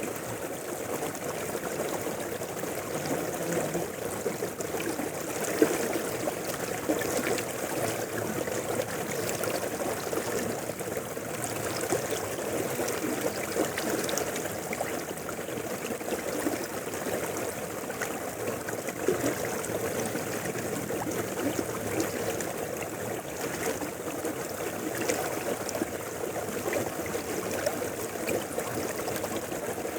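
A mountain river flowing steadily over rocks, an even babbling rush of water with a few small splashes here and there.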